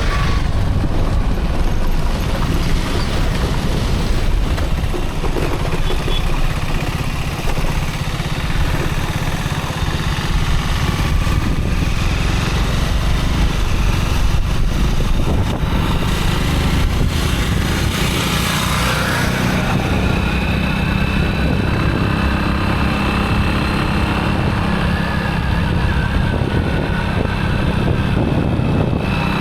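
Motorcycle being ridden on the road: engine running steadily under road noise, with a brief louder hiss about two-thirds of the way through.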